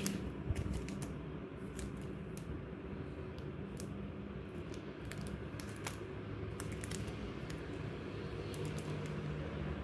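Scattered light clicks and taps of small stationery items being handled, irregular and close, over a steady low background hum.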